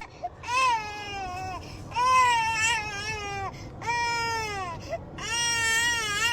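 Dog whining in four long, high-pitched cries, each over a second long and falling in pitch at the end.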